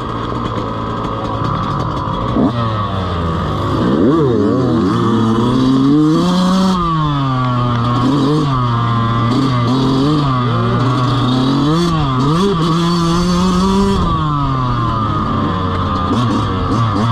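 Dirt bike engine running and revving, its pitch climbing sharply about three seconds in, then rising and falling again and again as the throttle is opened and closed. A steady higher whine runs underneath.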